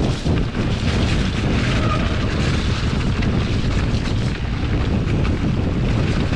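Wind buffeting the microphone over the rumble and rattle of a mountain bike riding a rough, snowy trail.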